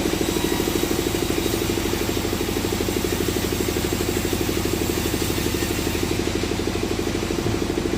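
A sawmill machine's engine running steadily with a fast, even throb.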